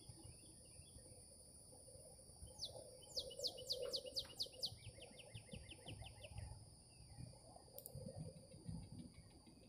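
A songbird sings a fast trill of about a dozen short down-slurred high notes, dropping to a lower pitch halfway through, over a steady high-pitched whine. One sharp click sounds near the end.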